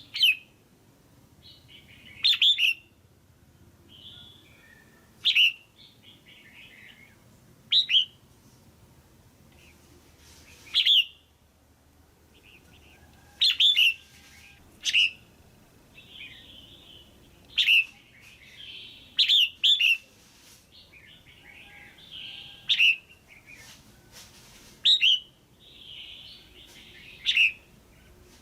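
Female red-whiskered bulbul calling: short, loud, sharp chirps repeated about every two to three seconds, sometimes twice in quick succession, with softer chattering warbles in between.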